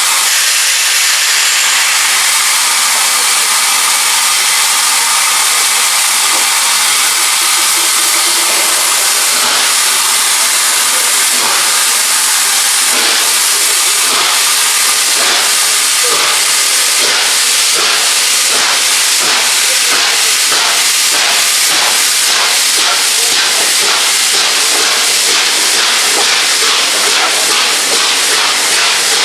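Steam locomotive pulling away, with a loud, steady hiss of steam. Exhaust chuffs come in about a third of the way through and quicken toward the end as it gathers speed.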